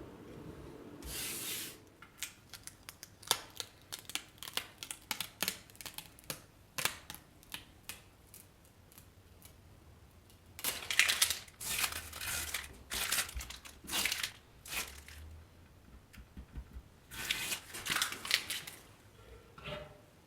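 Light hand-work sounds: a run of quick clicks and taps, then two stretches of rustling or scraping, each a few seconds long.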